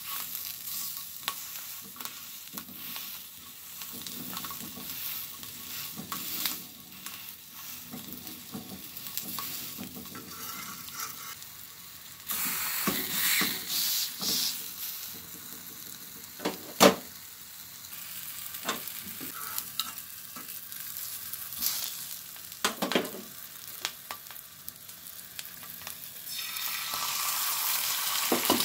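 Oil sizzling on a hot flat iron griddle as a kabab patty and capsicum pieces fry, with metal spatulas scraping and clacking against the plate; one sharp clack stands out about two-thirds of the way through. Near the end the sizzle grows louder as an egg goes into a capsicum ring on the griddle.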